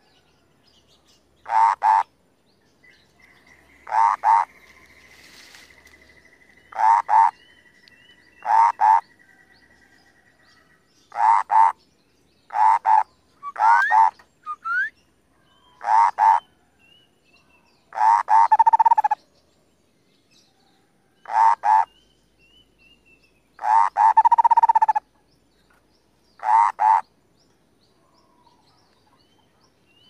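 Caged cucak kopi bird calling in full voice: short, harsh, rattling croaks repeated about every two seconds, a dozen or so, two of them drawn out longer. A faint steady high whistle sounds behind them for several seconds in the first third.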